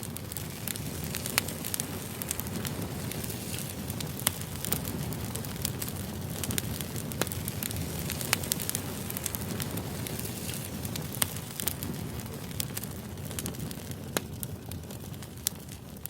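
Campfire burning: a steady low rush of flames with irregular sharp crackles and pops from the burning wood.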